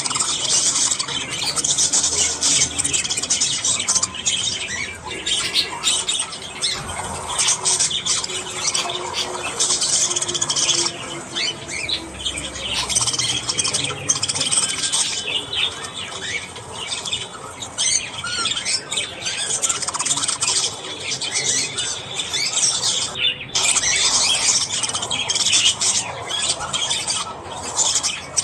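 Budgerigars chattering without a break: a dense, fast run of high warbles, chirps and squawks. The chatter dips briefly a little over three-quarters of the way through.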